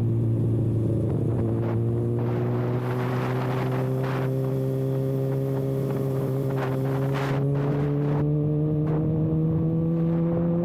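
Kawasaki ZX-6R inline-four engine running with no silencer canister on the exhaust, pulling at a steady cruise, its pitch climbing slowly as the revs build. Rushing noise swells twice, a few seconds in and again past the middle.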